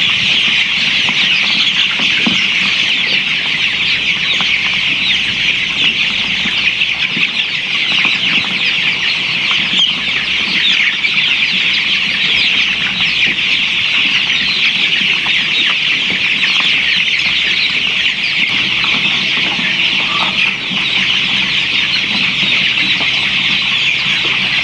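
A large flock of chickens calling all at once: a dense, steady chorus of many overlapping high-pitched calls with no break.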